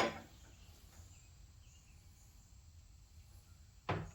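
A sharp knock as a container is set down, a second knock a little under four seconds later, and faint low hum between them.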